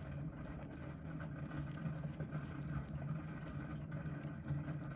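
Steady low hum with faint hiss: room tone or bench equipment noise raised by boosted recording volume, with a few faint small ticks.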